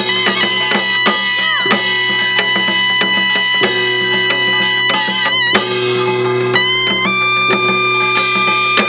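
Korean traditional gutgeori dance music: a held, reedy wind melody that bends and slides in pitch, stepping up about two-thirds of the way through, over steady drum strokes.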